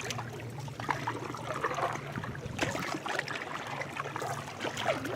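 Canoe paddles dipping and trickling in river water, with soft splashy strokes about once a second over a low steady hum.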